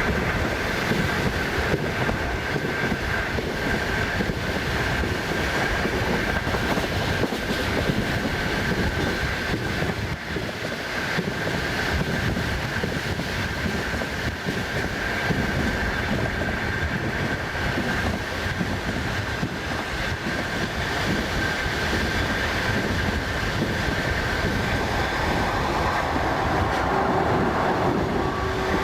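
Passenger train running, heard from inside a carriage at the window: steady rumble of wheels on the rails with a thin, steady whine above it.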